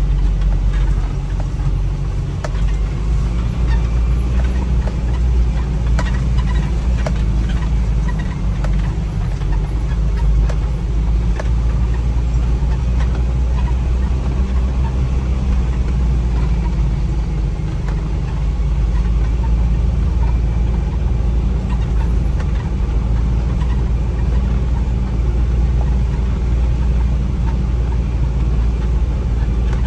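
A vehicle running with steady engine and road noise, a low rumble, with scattered small rattles and clicks.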